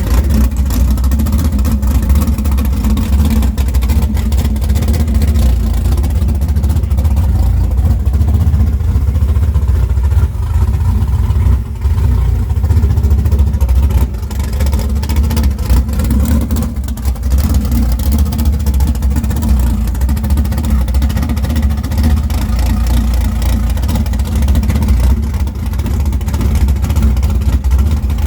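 A car engine running loudly up close with a deep, steady rumble.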